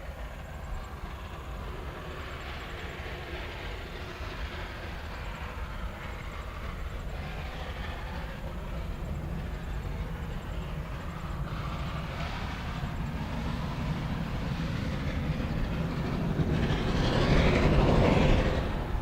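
Train hauled by the steam locomotive Ww 480 rolling past with a steady low rumble that grows louder. It is loudest about three-quarters of the way in as the train comes closest, then drops off sharply near the end.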